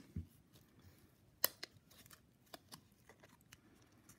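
A thick trading card being slowly torn apart by hand to free a mini card inside: faint, scattered crackles and sharp clicks of card stock, the loudest about one and a half seconds in.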